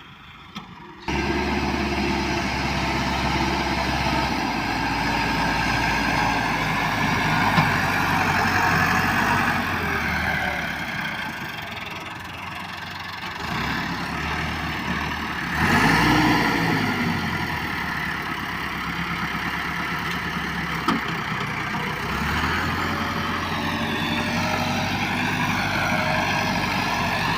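Massey Ferguson 385 tractor's diesel engine running steadily. It starts about a second in and surges briefly with a rise and fall in pitch about halfway through.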